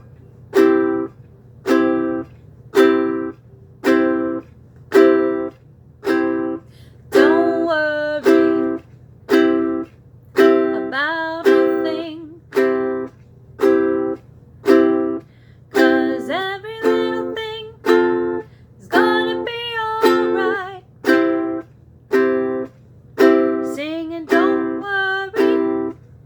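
Ukulele strummed with single down strums on the offbeat, about one short chord a second, each palm-muted so it cuts off quickly into a choppy reggae-style rhythm.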